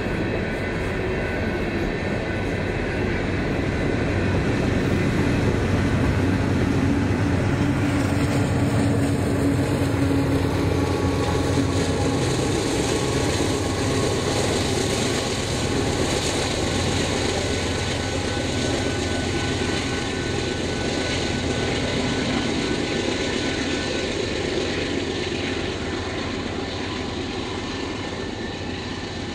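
A diesel-hauled train rolling past, with locomotive engines and the steady rumble of cars on the rails. It grows louder over the first several seconds, then slowly eases off.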